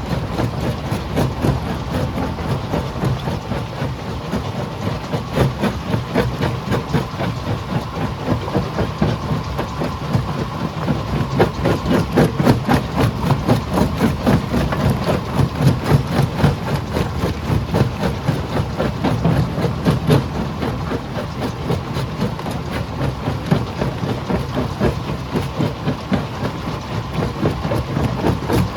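Stone crusher machine running with a steady rumble and a dense, continuous clatter of rock being broken.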